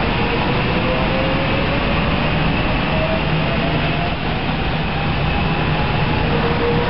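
Tokaido Shinkansen train pulling away along the track: a steady rumble of wheels on rail, with an electric motor whine slowly rising in pitch as it gathers speed.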